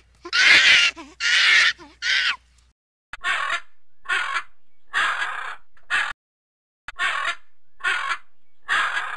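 Three loud, harsh animal calls in quick succession, then from about three seconds in a blue-and-gold macaw squawking, about seven squawks roughly once a second with a short pause in the middle.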